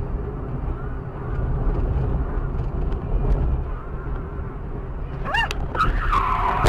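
Steady low road and engine rumble of a car as heard by a dashcam, with a loud cluster of higher-pitched sounds in the last couple of seconds.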